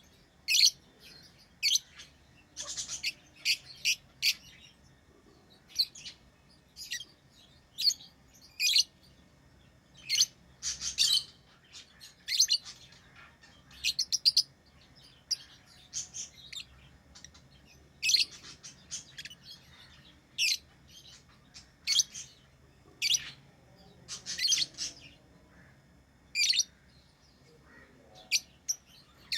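Pet lovebirds chirping: short, high-pitched calls, singly or in quick clusters of two or three, about every second or two, over a faint low hum.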